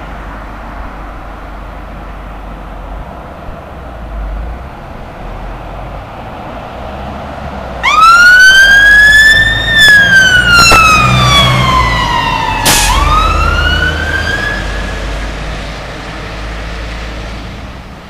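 Fire engine's wailing siren while it responds to a call, with road traffic noise before it. The siren comes in about halfway through with a quick rise in pitch, falls slowly, rises again, and fades as the engine moves away.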